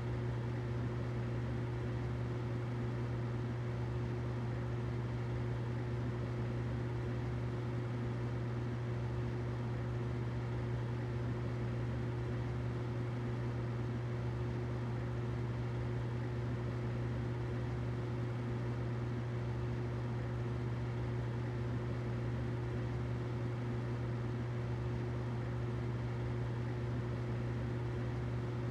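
Humidifier running steadily: a low, even hum with a faint steady tone above it and a soft hiss, unchanging throughout.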